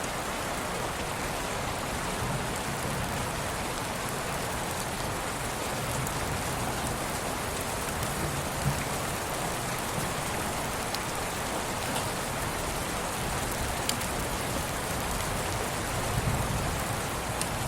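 Steady rain sound: an even hiss of falling rain with a few sharper drop ticks scattered through it.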